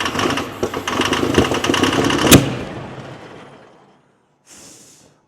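Pulling tractor's engine running hard with rapid, rough firing and one sharp crack about two seconds in, then fading away. Two short faint hisses follow near the end.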